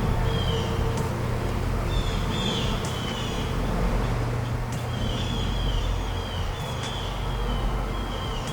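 Small bird chirping: clusters of short, falling chirps repeating every second or two over a steady low rumble.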